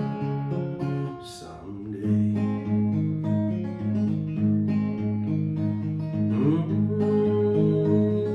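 Acoustic guitar playing an instrumental passage without singing: picked notes over a repeating bass line, with a short drop in level about a second in before the playing picks up again.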